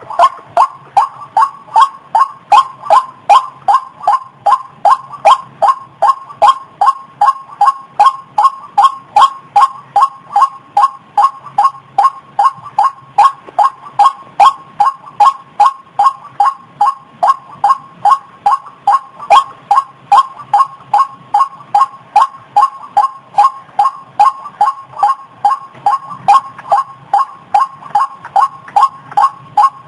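White-breasted waterhen (ruak-ruak) calling over and over, a short falling note about three times a second in a steady, unbroken rhythm.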